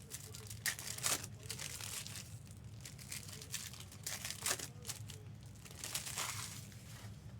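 Trading card pack wrappers crinkling and tearing as packs are opened and handled, in short bursts, the strongest about a second in, again around four and a half seconds and near six seconds, over a steady low hum.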